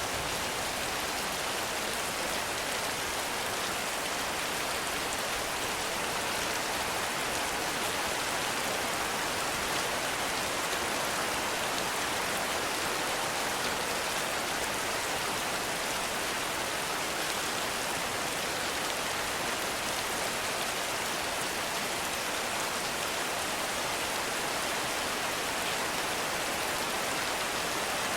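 Heavy rain falling steadily, a dense even hiss of drops with no breaks or thunder.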